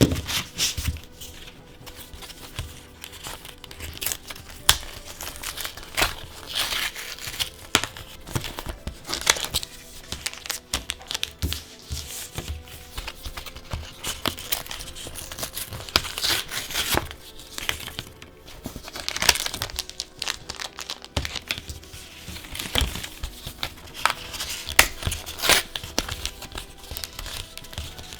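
Plastic and foil wrapping of a trading-card booster pack being handled, crinkled and torn open, in irregular crackling rustles with louder bursts every few seconds.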